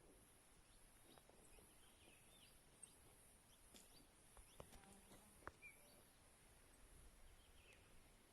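Near silence: faint outdoor ambience with a few faint, short bird chirps and small ticks.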